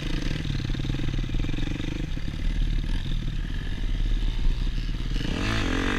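Suzuki RM-Z250 four-stroke single-cylinder dirt bike engine running steadily at low revs, with a quick rise and fall in revs near the end.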